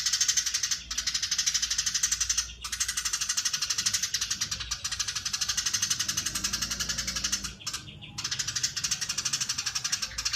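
Eurasian tree sparrow giving its long, rapid chattering call, a fast run of high chirps. It goes on in long stretches broken by a few brief pauses.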